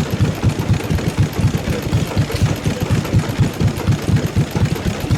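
Slavia 5 hp single-cylinder stationary diesel engine running steadily, with an even firing beat of about five beats a second.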